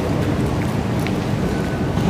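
Singapore MRT train running, a steady rumble and rushing noise.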